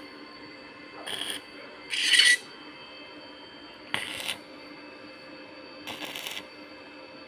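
Metal parts and tools being handled: four short bursts of clinking and scraping, the second the loudest, over a faint steady hum.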